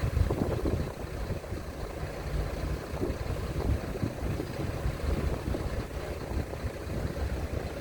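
A ferry's engines running with a low, uneven rumble as the ship manoeuvres alongside the berth, with gusting wind buffeting the microphone.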